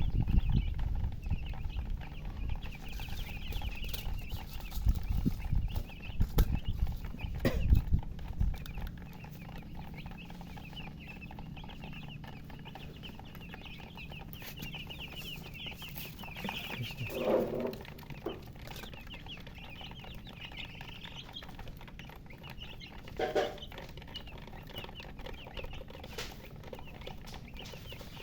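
A brood of chicks cheeping continuously, a dense chatter of rapid high peeps. Low rumbling and knocking noise runs under it for the first eight seconds or so, and two short, louder, lower sounds stand out past the middle.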